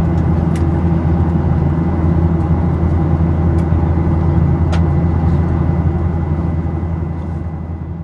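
Steady in-flight cabin drone of a Boeing 737-800: the low hum of its CFM56 turbofans mixed with airflow noise, with a few faint clicks. The sound fades down near the end.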